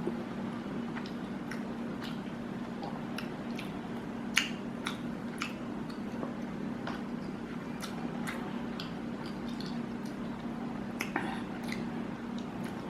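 A person chewing a mouthful of chicken dipped in yogurt-mint sauce, with irregular wet clicks and smacks of the mouth over a steady low hum.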